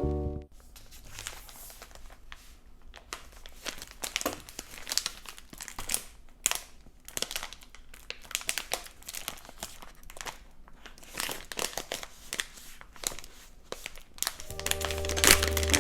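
Plastic packaging crinkling and rustling in irregular handling noises as an iPad case is unwrapped.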